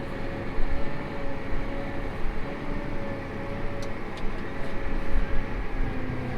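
Farm tractor running, heard from inside the cab: a steady engine rumble with a thin steady whine above it, while the planter's fans are still running.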